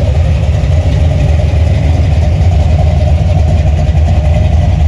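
A car engine idling with a loud, steady low rumble.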